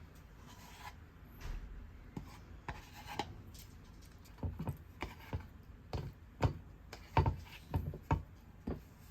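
Irregular light knocks and rubbing or scraping, like objects being handled on a surface, sparse at first and closer together and louder from about halfway through.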